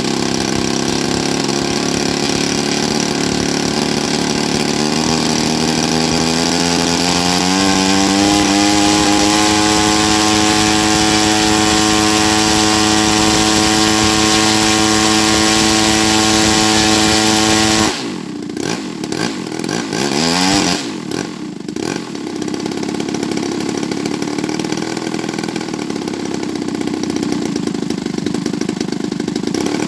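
Small gasoline model-airplane engine running, climbing in pitch over several seconds and then held steady at high speed. About eighteen seconds in it drops suddenly to a lower, uneven running with a brief dip and rise in pitch.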